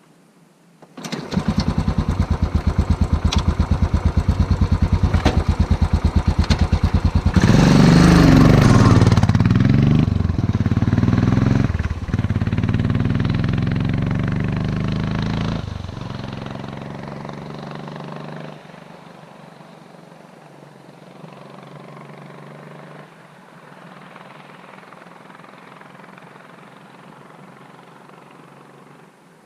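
Motorcycle engine starting and running with a quick, even beat. From about seven seconds in it revs hard and pulls away, the pitch rising and dropping back at several gear changes, then fades out by about eighteen seconds, leaving only a faint low background sound.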